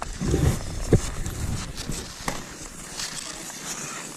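Cross-country skis sliding and swishing over snow, with poles and skis thumping into the snow, the heaviest thump about a second in and a sharp click a little after two seconds.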